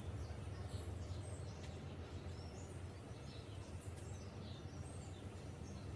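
Faint outdoor ambience: small birds chirping here and there over a low, steady hum.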